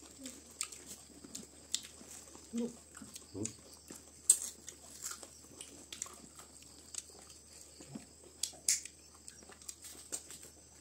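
Close-up chewing and lip-smacking of two people eating rice with their hands, full of small wet clicks. The sharpest click comes about four seconds in.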